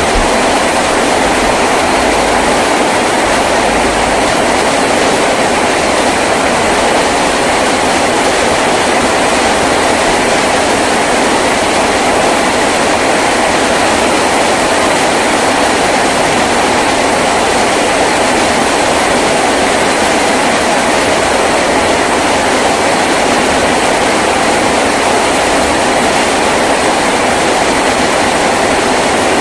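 Heavy rain drumming steadily on a tin roof: a dense, unbroken downpour.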